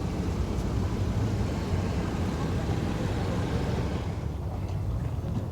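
Steady low rumble with a murmur of background voices.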